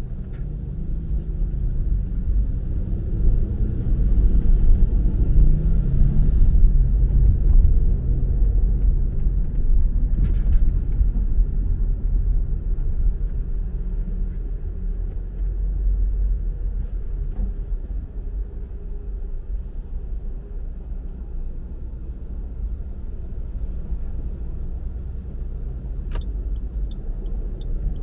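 Car on the move: a steady low rumble of engine and road noise, a little louder for several seconds in the first half, with a faint row of evenly spaced ticks near the end.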